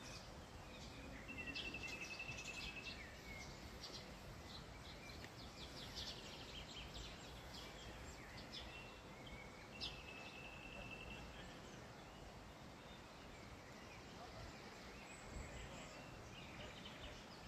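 Wild birds calling faintly over a steady outdoor background hiss: scattered high chirps, and a rapid high trill about a second in and again near ten seconds.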